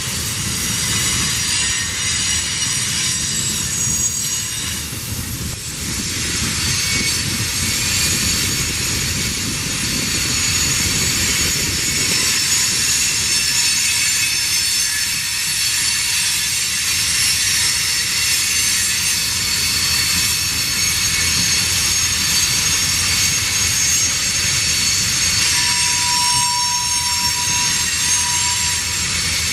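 Freight train rolling past, a steady rumble of the cars with high-pitched wheel squeal running over it throughout.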